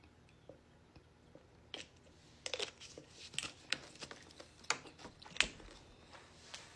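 Close-up eating sounds: after a quiet start, a run of sharp, irregular crunches and clicks begins about two seconds in.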